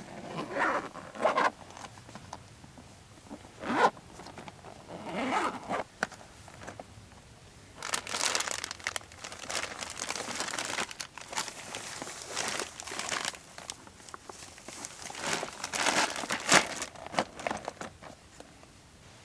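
Irregular bursts of rasping and rustling handling noise, busiest in the middle of the stretch.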